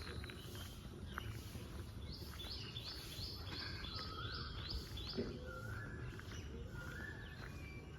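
Birds chirping: a quick run of short, repeated high chirps, about three a second, and lower whistled notes, over a steady low background noise.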